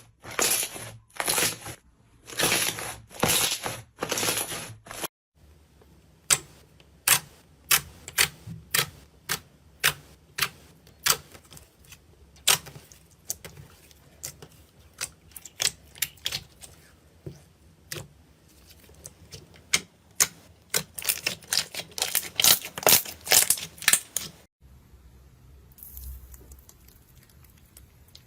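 Slime being squished and worked by hand: a few short squelches, then a long run of sharp, crisp pops and clicks that come faster and closer together about three quarters of the way through.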